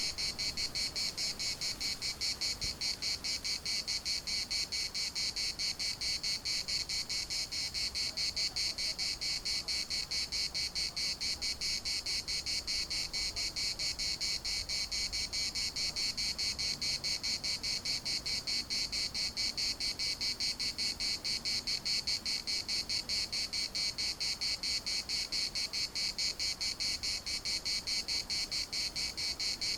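Cicadas singing in a continuous chorus: a dense, high, rasping buzz that pulses rapidly and evenly without a break.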